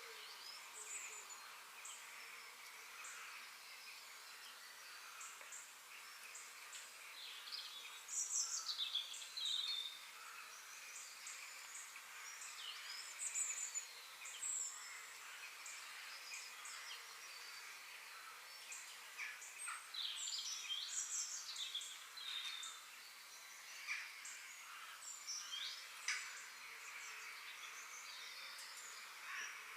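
Several birds chirping and calling: many short chirps and quick trills, thickest around a third of the way in and again past the middle, over a faint steady outdoor hiss.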